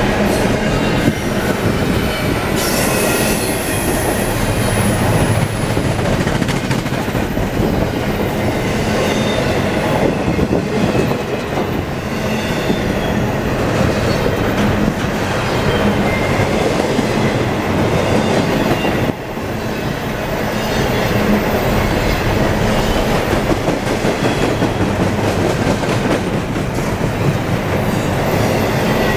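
CSX double-stack intermodal freight train passing at speed: a steady rumble of container cars' wheels on the rail with clicking over rail joints, and a thin high wheel squeal a few seconds in.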